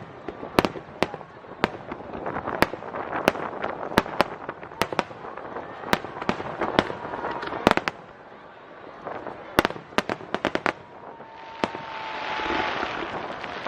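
Aerial fireworks shells bursting in an irregular rapid series of sharp bangs, with a brief lull about eight seconds in.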